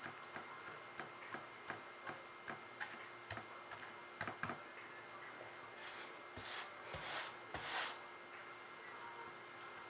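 Light ticks and taps from painting tools being handled, then four short rubbing strokes in quick succession about six to eight seconds in, like a brush scrubbed against a painting surface.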